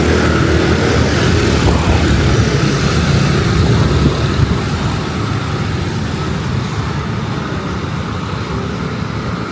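Loud, steady street rumble of road traffic mixed with strong wind buffeting the microphone.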